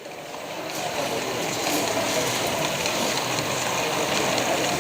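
Steady mixed background noise without clear tones, fading in over the first second and a half.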